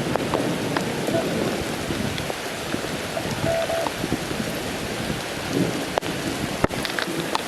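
Thunderstorm rain falling steadily: a continuous hiss with scattered sharp taps of individual drops.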